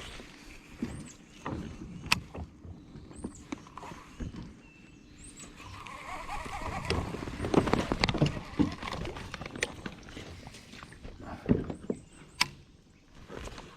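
Scattered knocks, clicks and rustling of gear being handled in a kayak, with a few faint high chirps.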